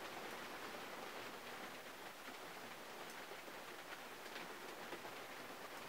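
Steady rain falling on a 1951 Mercury, heard from inside the closed cabin, with scattered single drops ticking on the body and glass.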